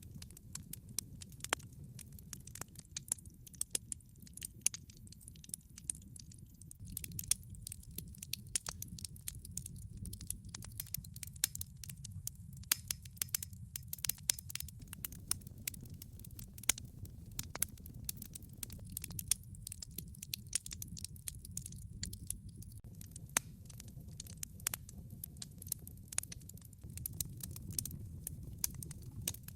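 Log fire burning in a fireplace: many irregular sharp crackles and snaps over a steady low rumble.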